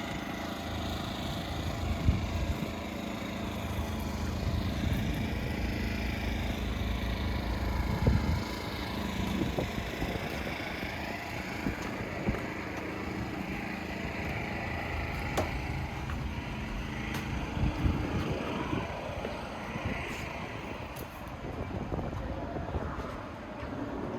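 A boat's engine running steadily, with a few short knocks, the loudest about 2 and 8 seconds in.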